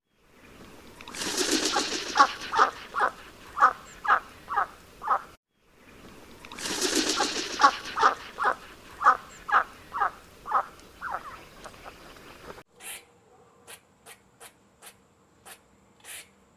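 A bird calling in two runs of short, evenly spaced calls, about two a second, each run starting with a rush of noise. Then a string of faint clicks near the end.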